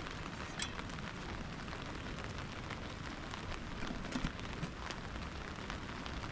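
Steady rain falling, with scattered sharp ticks of drops or crackles, the loudest a little over four seconds in.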